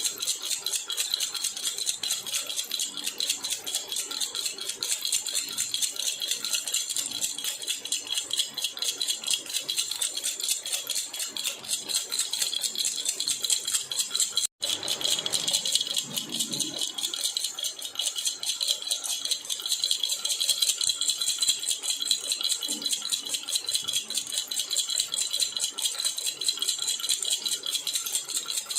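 Baby rattle (jhunjhuna) shaken continuously in a fast, steady jingle. It cuts out for an instant about halfway, then resumes.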